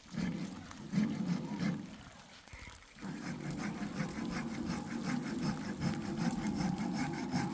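Wood being sawn by hand: a few short scraping strokes, then from about three seconds in a steady run of quick, even sawing strokes.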